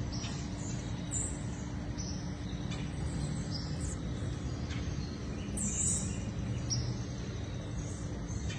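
Birds chirping in short, high calls scattered every second or so, over a steady low rumble.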